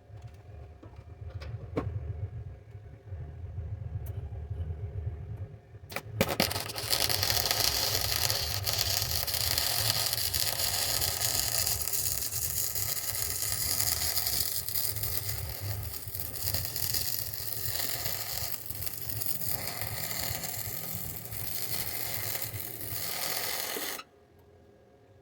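MIG welder arc crackling and hissing steadily, starting about six seconds in and cutting off abruptly near the end. Before the weld, a low hum with a few sharp clicks.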